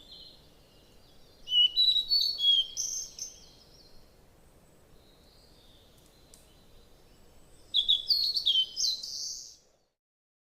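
Small songbird chirping in two quick bursts of short, high, falling notes, one about a second and a half in and another near the end, with faint background hiss between; the sound cuts off suddenly just before the end.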